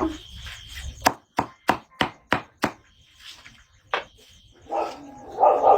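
Wood being chopped with a blade: a quick run of six sharp strikes, about three a second, then one more strike a little over a second later.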